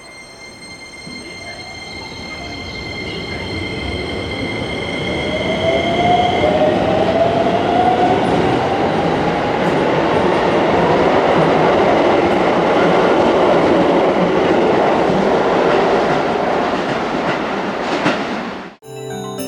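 Keisei 3000-series electric train pulling out and accelerating past. Its traction motors give a whine that rises in pitch, and the rolling noise of wheels on rail grows louder and stays loud as the cars go by.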